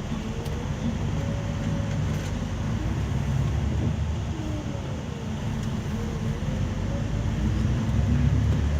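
Scania coach under way, heard from inside: a steady low rumble of the diesel engine and road noise, with a faint whine that glides up and down in pitch, growing slightly louder near the end.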